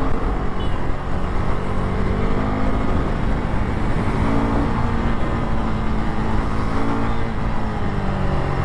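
Motorcycle engine running while ridden through city traffic, its pitch rising and falling with the throttle over a constant low rumble.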